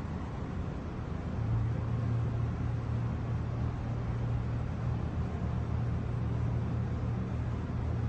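A steady low rumble with a droning hum that comes in about a second and a half in and holds steady.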